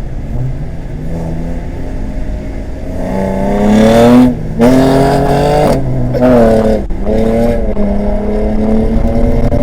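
Car engine accelerating hard, its pitch climbing and dropping sharply three times in quick succession as it shifts up through the gears, then running steadily at higher speed.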